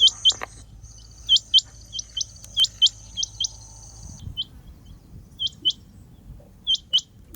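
Rain quail calling: sharp, high, upswept notes given in pairs, the pair repeated about every second or so. A steady high whine sits behind the calls and stops about four seconds in.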